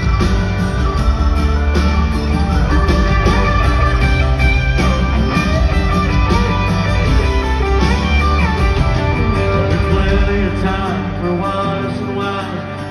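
A country-rock band playing an instrumental break, a guitar lead over bass and drums. The bass and drums drop back about eleven seconds in.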